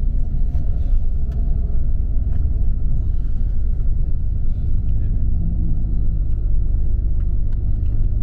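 Steady low rumble of a coach bus driving on a country road, engine and road noise heard from inside the cabin.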